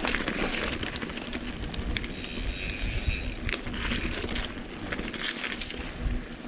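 Mountain bike rolling along a wet dirt trail: steady tyre and drivetrain noise with scattered clicks and knocks as the bike rattles over the ground.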